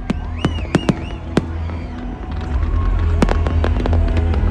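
New Year fireworks going off: several sharp bangs in the first second and a half and another a little past three seconds, over a steady low rumble.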